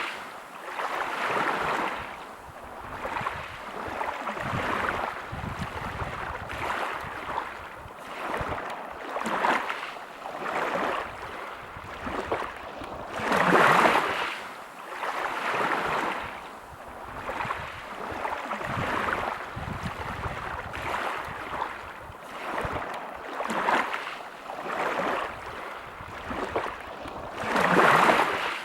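Sea waves breaking and washing over a pebble beach: a rushing surge every couple of seconds, with two bigger breakers, one midway and one near the end.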